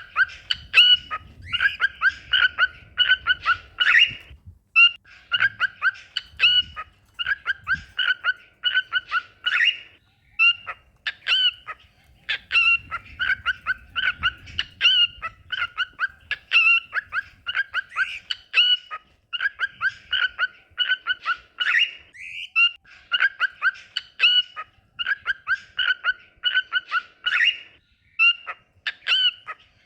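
Cockatiels singing: rapid, repeated short chirps in runs, broken by brief pauses.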